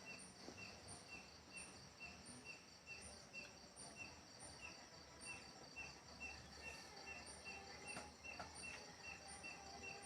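Near silence with a faint cricket chirping evenly, about two to three short chirps a second.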